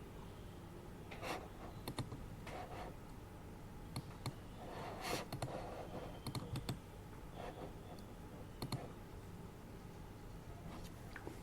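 Sparse keystrokes on a computer keyboard, single clicks and short runs of two or three, with a few softer rustles, over a steady low background hum.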